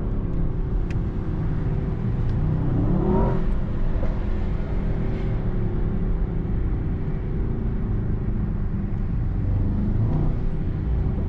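2024 Mercedes-AMG S63's twin-turbo 4.0-litre V8 running steadily on the move, with the engine pitch rising in a rev about three seconds in and again, more weakly, near the end.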